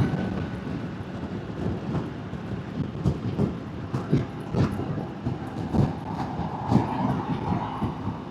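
Motorbike riding noise through a helmet-mounted DJI Mic Mini set to high noise cancellation: an uneven low rumble of wind buffeting and road noise, with irregular thumps. A steady engine tone comes in about six seconds in.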